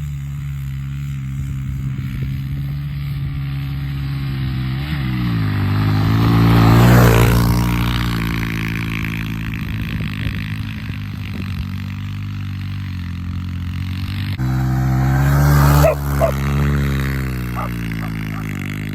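Small off-road motorbike engine running steadily, rising in pitch and loudness as it revs, with the loudest peaks about seven seconds in and again about sixteen seconds in.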